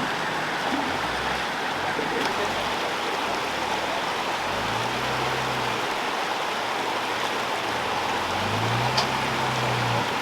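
Rushing river water, steady, with a 4WD's engine underneath that rises in revs about halfway through and again near the end as it climbs over the boulders.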